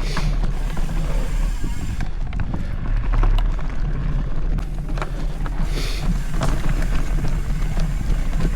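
Mountain bike riding over a dirt trail, recorded on the rider's camera: a steady low wind rumble on the microphone, with scattered clicks and rattles from the bike over the ground.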